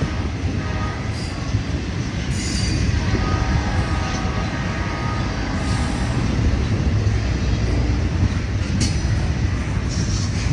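CSX intermodal freight train rolling past: a steady rumble of wheels on rail with a faint wheel squeal and a few sharp clicks.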